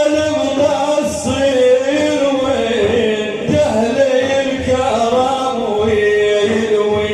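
Male voices chanting a manqaba, an Islamic hymn in praise of the Prophet, in long melismatic lines that glide and hold each note for a second or more.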